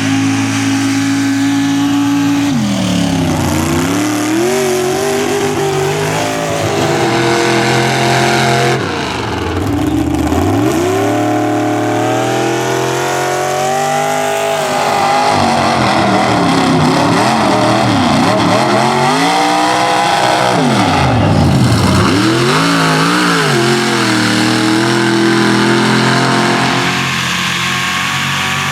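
Mega mud truck's big engine revving hard, its pitch dropping and climbing back up several times as the throttle is worked.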